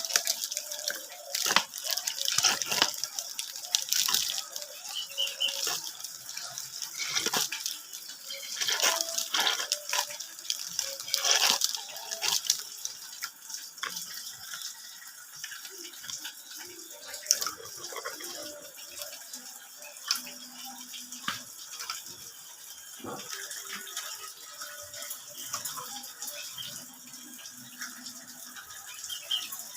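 Water splashing and spraying in short, irregular bursts while a Javan myna is given a bath. The bursts come thick and loud in the first half and thin out after that.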